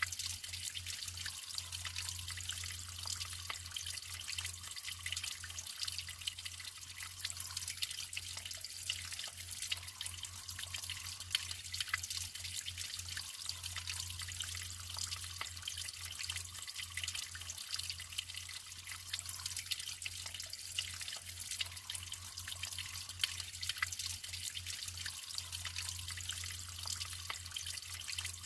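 Natural flowing water trickling and splashing steadily, full of small drips and ticks, with a low steady hum underneath.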